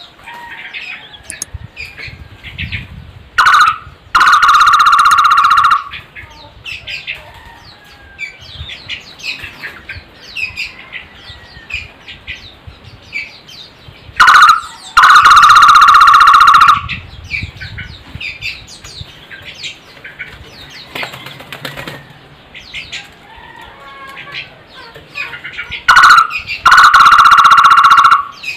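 A barbet calling three times, about eleven seconds apart. Each call is a short note followed by a loud, steady trill of about two seconds, over softer chirping of small birds.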